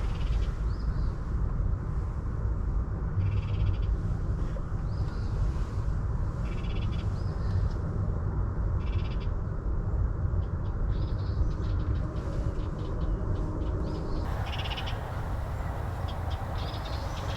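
Wild birds calling: short high chirps and trills repeating every few seconds, over a steady low rumble.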